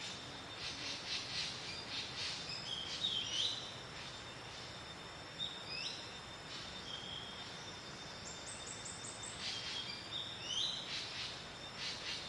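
Several birds calling: short chirps and up-and-down whistled notes, clusters of rapid pulsed notes, and a quick run of high notes about two thirds of the way through, over a steady thin insect drone.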